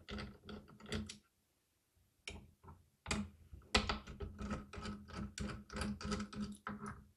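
Screwdriver clicking quickly, about five clicks a second, while undoing the screws of a motherboard's M.2 heatsink cover. There is a short run at the start, a pause, then a longer run from about three seconds in.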